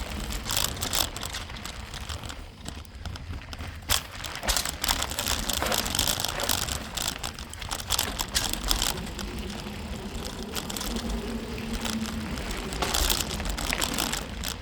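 Mountain bike rolling down a rough dirt trail: tyres crunching over loose ground and the bike rattling in quick, irregular clicks, with wind rumbling on the microphone.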